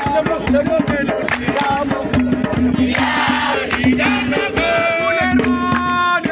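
A crowd singing and chanting together over a fast, dense percussive beat.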